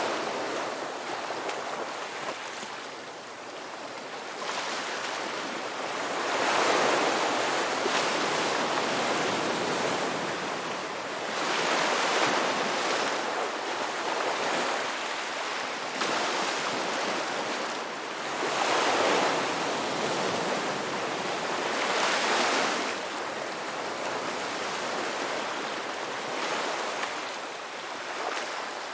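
Sea waves breaking and washing ashore: a continuous rush of surf that swells louder every few seconds as each wave breaks, then eases off.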